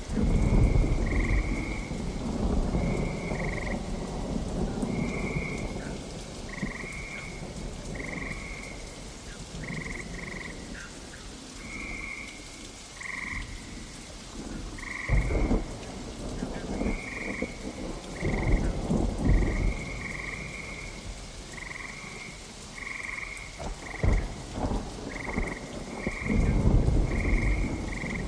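Steady rain with frogs calling in short, regular croaks, one or two a second, while thunder rumbles several times: about a second in, around the middle, and again near the end.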